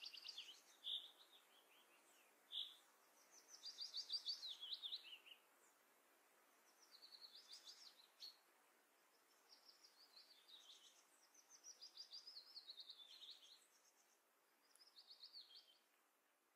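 A songbird singing faintly, in several short phrases of rapid high notes a few seconds apart.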